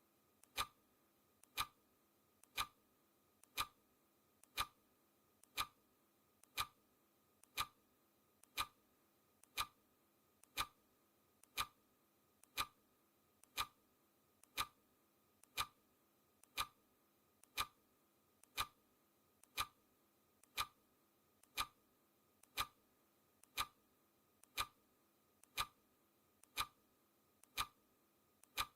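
Clock ticking, one sharp tick each second, each with a faint lighter click just before it.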